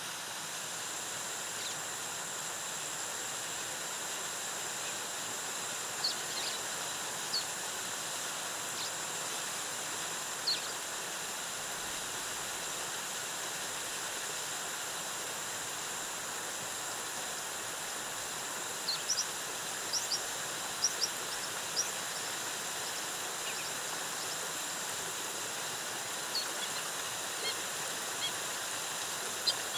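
Waterfall rushing steadily, with a constant high thin buzz over it and short high bird chirps now and then, most in a cluster a little past the middle and again near the end.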